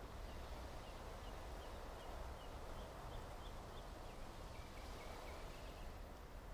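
Faint outdoor ambience with small birds chirping over a steady low background hum. High, short chirps come about three a second for the first few seconds, then a brief lower trill about five seconds in.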